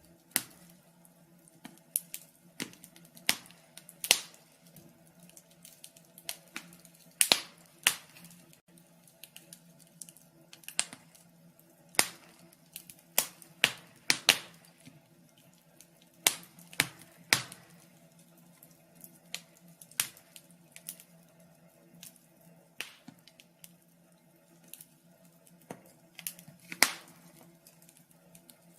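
Fire crackling: sharp, irregular pops and snaps, roughly one a second and some in quick pairs, over a faint steady low hum.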